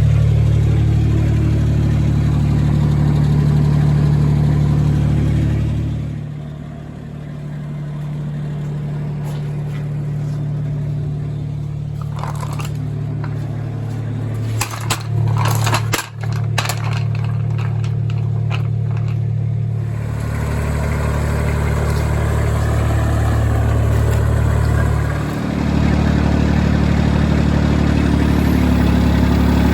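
Terramite compact backhoe engine running, throttled down about six seconds in and brought back up around twenty seconds, dipping briefly once more near the end. A cluster of sharp metallic knocks comes in the middle while the machine works at the lower throttle.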